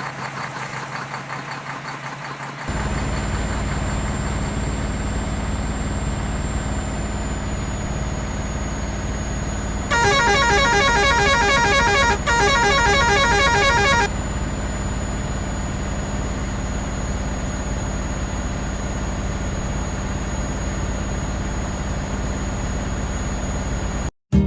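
Toy vehicle sound effects: a steady engine hum with a thin high whine, and a horn-like rapid beeping for about four seconds in the middle.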